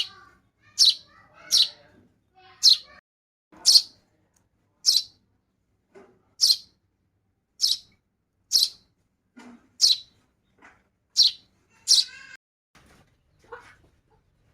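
Baby bird chirping: about a dozen short, high chirps, roughly one a second, stopping about twelve seconds in.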